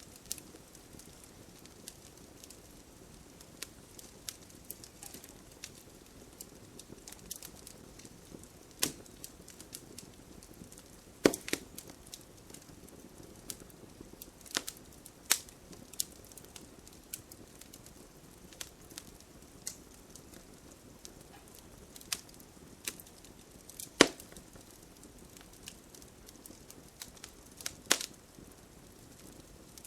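Wood campfire burning with a soft steady hiss and irregular crackles, and a few sharp pops from the burning logs.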